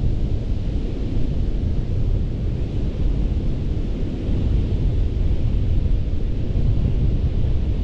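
Ocean surf washing continuously onto a sandy beach: a steady low rumble under a softer hiss, with no single wave break standing out.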